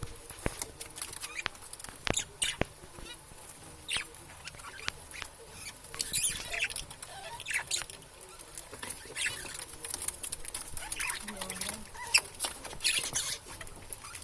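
Budgerigars chattering: a run of short, irregular chirps, clicks and squeaky warbles.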